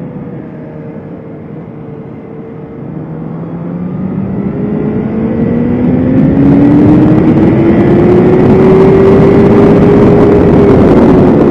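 BMW S1000RR inline-four sport bike engine, running low for the first few seconds and then rising steadily in pitch and loudness for several seconds as the bike accelerates, easing off slightly near the end.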